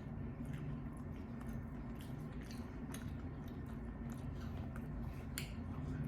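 Close-miked chewing of bone-in chicken wings, with scattered small wet clicks and smacks.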